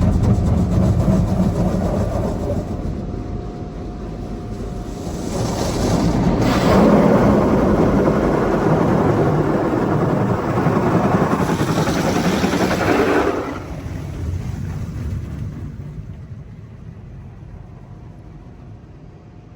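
Petit AccuTrac 360-i touchless in-bay car wash spraying the car: a rushing hiss of water jets that swells loud for about eight seconds in the middle as the spray passes over, then dies away.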